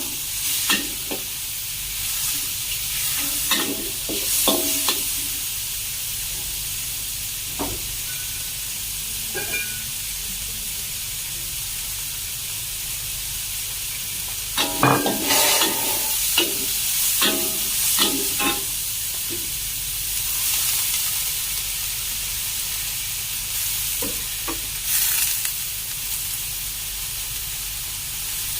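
Chicken sizzling as it stir-fries in a pan, with a utensil knocking and scraping against the pan in short spells, busiest around the middle.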